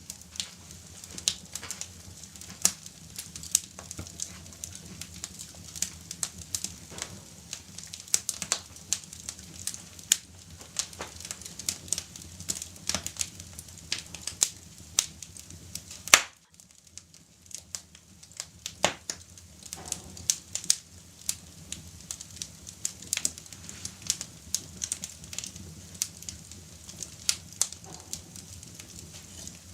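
Wood fire in a fireplace crackling, with frequent irregular pops and snaps over a low steady rumble. One especially loud pop comes about 16 seconds in, after which the background briefly drops away.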